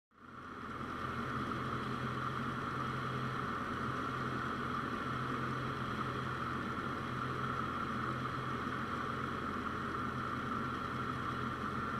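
Cessna 172's engine and propeller droning steadily, heard from inside the cockpit; the sound fades in over the first second.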